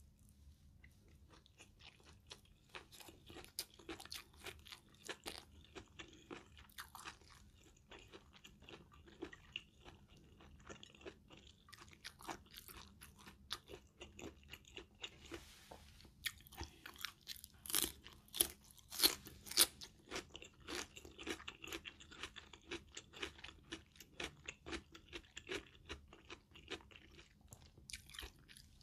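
Close-miked chewing of a spoonful of stir-fried basil minced pork and rice: a constant run of small wet clicks and crunches, with a cluster of louder crunches a little past halfway.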